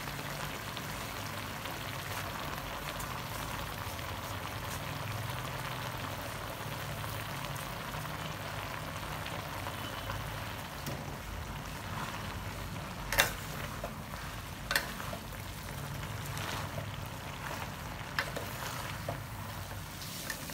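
Chicken pieces frying in a steel wok, a steady sizzling hiss as fresh greens are piled on top. A few sharp clicks break in, the loudest about two-thirds of the way through.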